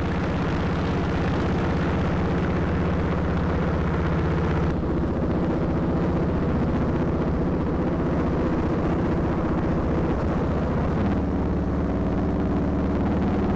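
Motorcycle engine running steadily at road speed, with wind rushing over the microphone; the engine note shifts about eleven seconds in.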